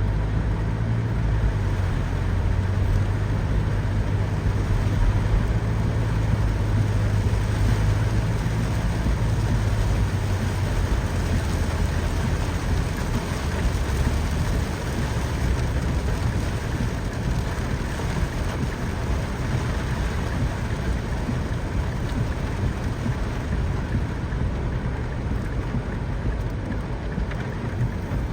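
Steady rain, an even hiss of falling drops. A low rumble sits under it for the first ten seconds or so, then eases.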